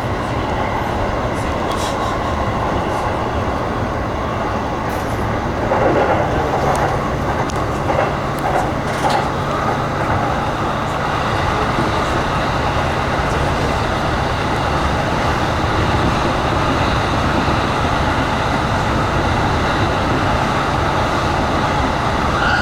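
Passenger train running, heard from inside the car: a steady rumble of wheels and running gear with a low hum, and a few louder clacks over the rail joints about six to nine seconds in.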